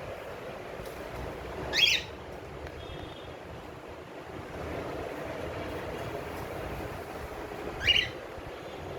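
Cockatiel giving two short, high chirping calls, about six seconds apart, over steady background noise.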